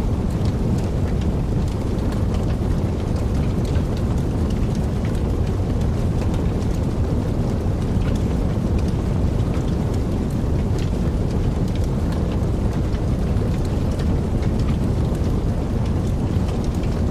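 Wood fire burning in a fireplace: a steady low rumble of the flames with many small, scattered crackles and pops.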